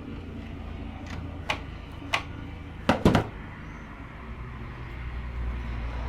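Handling noise while insulating tape goes over the terminals inside a UPS: a few short, sharp clicks and knocks, the loudest a close pair about three seconds in, over a low steady hum.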